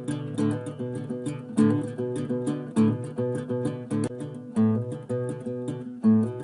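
Solo acoustic guitar playing an original piece, picked notes over chords with accented strums about every second or so.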